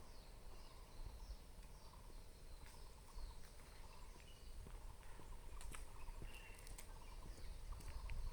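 Faint chirping of a songbird of unknown species: short calls, many falling in pitch, repeated at irregular intervals. Beneath them is a steady low rumble, with a few sharp ticks about two-thirds of the way through.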